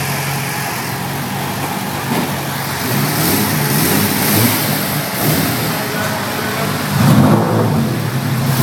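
Nissan Silvia S13 drift car's engine idling steadily, then blipped with the throttle from about three seconds in, with a sharper rev at about seven seconds before it drops back to idle.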